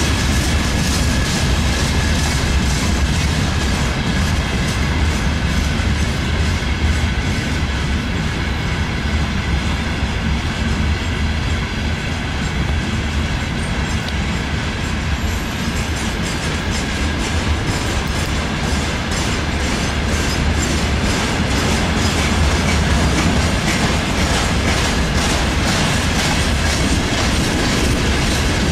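Long freight train rolling past, its wagons' wheels clattering steadily over the rail joints with a deep continuous rumble.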